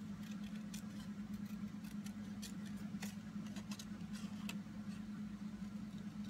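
Scissors snipping through stamped cardstock in a series of short, irregular snips, mostly in the first four seconds or so, over a steady low hum.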